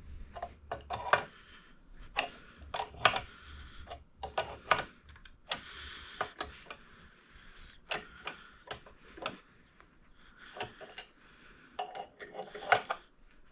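Crescent wrenches clicking and clinking against a crank puller tool and engine case, in irregular sharp metallic taps with bits of scraping between, as the crankshaft is slowly drawn back into the case.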